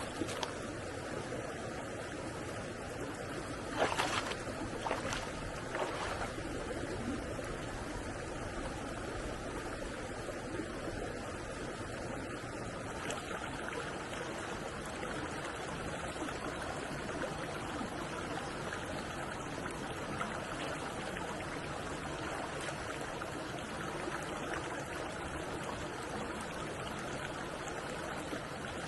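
Stream water flowing steadily. A few short sharp knocks come about four, five and six seconds in, the first the loudest.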